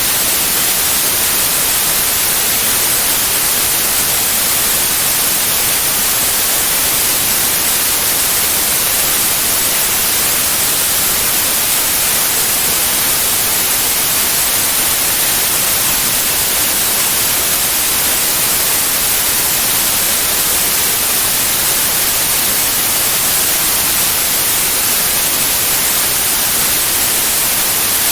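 Steady white noise: an even, unchanging hiss, brightest in the high pitches.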